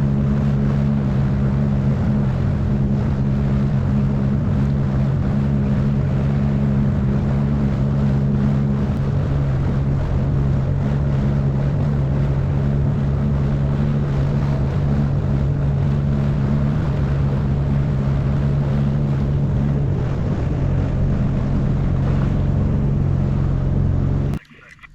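Sea-Doo jet ski engine running steadily while under way, with wind on the microphone; it stops suddenly near the end.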